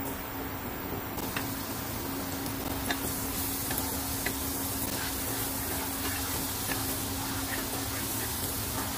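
Minced garlic sizzling in hot oil in a frying pan as it is stirred with a wooden spatula, with scattered light clicks and pops. The sizzle grows stronger about a second in, and a faint steady low hum runs underneath.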